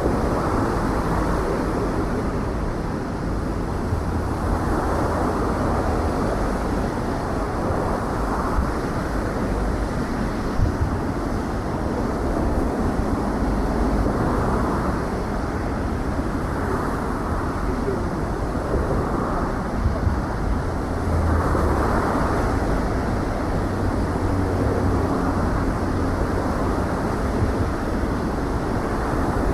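Steady city street noise during a snowstorm: traffic and wind on the microphone, with a few small knocks.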